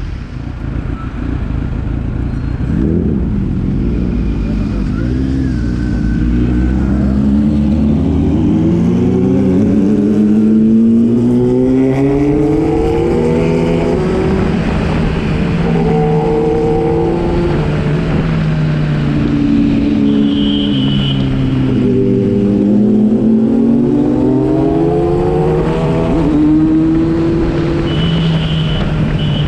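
Kawasaki inline-four sport motorcycle engine running on the road, its pitch climbing and dropping again several times as the rider accelerates and eases off, over a steady low rumble.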